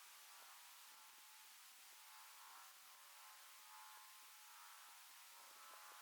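Near silence: a faint, steady hiss with a faint low hum and a few soft ticks.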